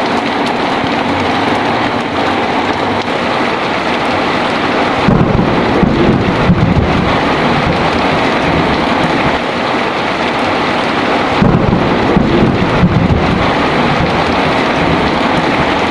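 Heavy rain pouring steadily, with two rolls of deep thunder rumbling: one about five seconds in, the other a few seconds before the end.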